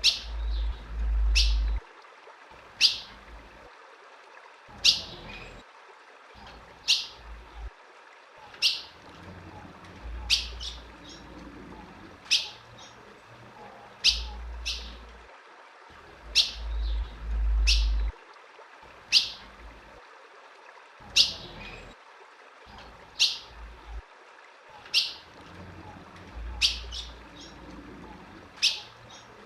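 Female ultramarine grosbeak (azulão) giving single sharp chip calls, one about every two seconds, steady throughout. A few low rumbles come and go underneath.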